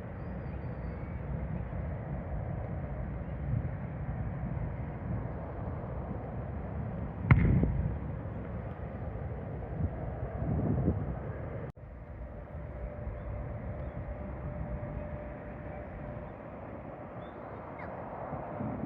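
Steady low outdoor rumble with wind on the microphone. There is a sharp knock about seven seconds in and a brief break in the sound a little before the middle, after which a faint steady hum joins the rumble.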